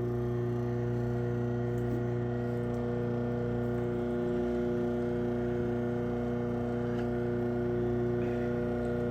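Craftsman chain-drive garage door opener's motor running steadily as it closes the door, a constant low electric hum, not quite too loud.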